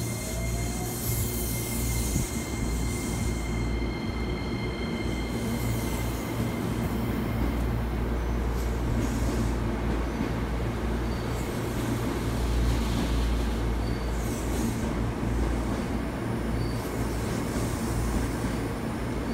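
Hankyu 9300 series electric train departing and running past at low speed: a continuous low rumble of wheels on rail, with thin high wheel squeal in the first few seconds and a short rising whine from the traction motors about a second in as it pulls away.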